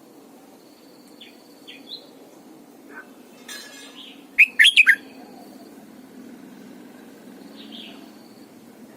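Red-whiskered bulbul singing: a loud, quick phrase of several gliding notes about four and a half seconds in, with softer short chirps before and after it.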